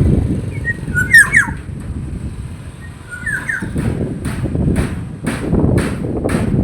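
Black-naped oriole calling: two short whistled phrases, then a rapid series of repeated falling notes about twice a second, over a low rumbling background noise.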